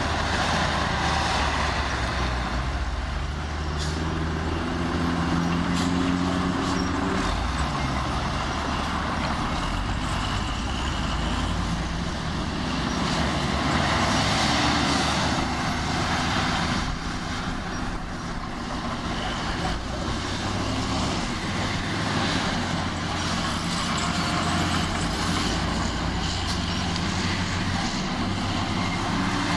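Heavy diesel engine of an earthmoving machine such as a bulldozer, running steadily, its pitch rising and falling several times as the load or throttle changes.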